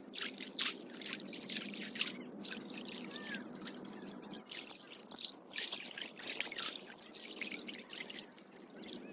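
Water splashing and trickling, with many irregular small splashes and drips.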